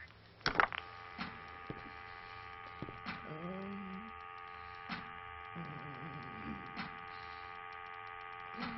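Sound-design hum of a fantastical machine. A sharp crack comes about half a second in, then a steady hum of several held tones with scattered clicks. A short pitched sound bends up and down around three seconds in.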